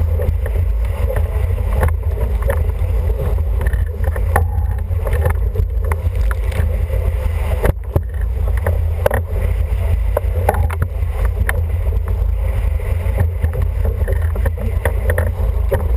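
Wind buffeting the microphone aboard an International 14 sailing dinghy under way, a steady deep rumble with scattered sharp knocks and splashes throughout.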